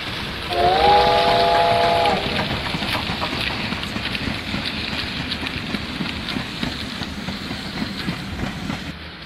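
HO scale model train running on sectional track, its wheels rumbling and clicking over the rail joints. About half a second in, a steam-train whistle sounds a chord of several tones for about a second and a half.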